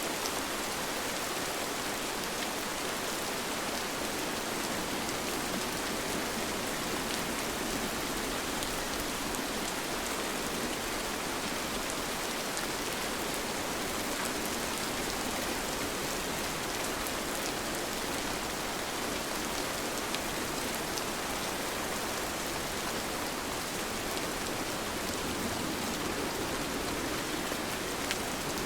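Steady rain falling, an even hiss with the faint ticks of single drops landing, holding constant with no change.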